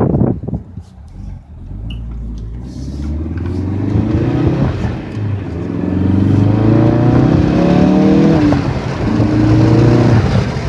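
2016 Ford Focus RS's 2.3-litre turbocharged four-cylinder engine accelerating hard, heard from inside the cabin: its pitch climbs, drops at a gear change about five seconds in, climbs again, drops at another change about nine seconds in and climbs once more. A few knocks in the first half-second.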